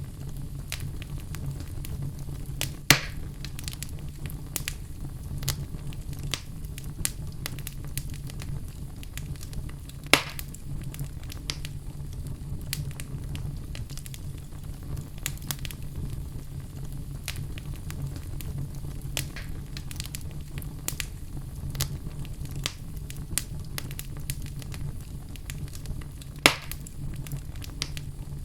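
Fire crackling steadily over a low rumble, with many small ticks and three loud sharp pops spread through.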